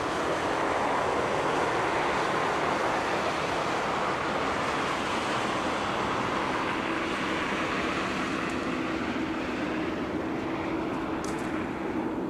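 Jet engines of a China Southern Boeing 787-9 running, a steady rushing noise with a low steady hum that comes in about halfway through.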